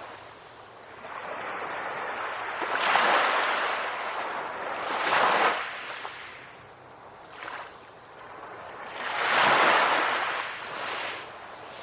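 Ocean surf: waves breaking and washing up the shore in swells, loudest about three seconds in, again around five seconds, and most strongly near ten seconds, easing off between them.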